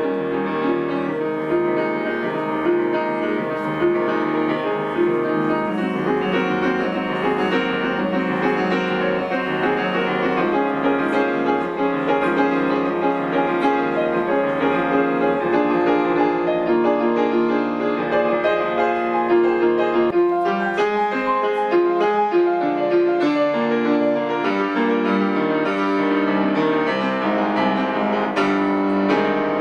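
Solo grand piano playing a continuous classical-style piece, with dense running notes and chords at a steady, fairly loud level.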